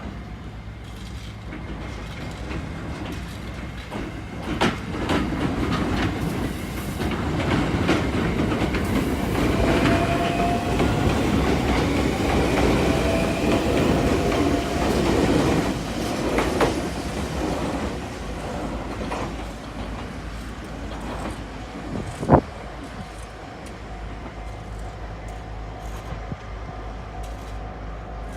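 E491 series 'East i-E' electric inspection train pulling out, its running noise building to its loudest midway, then easing. There is clickety-clack over the rail joints, a faint rising whine in the middle and one sharp clank about 22 seconds in.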